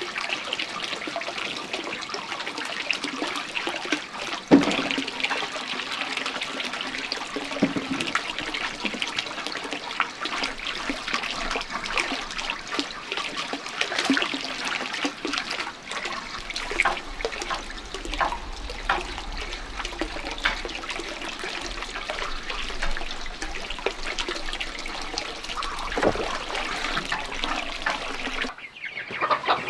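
Water running and splashing steadily, with scattered small knocks, cutting off abruptly near the end.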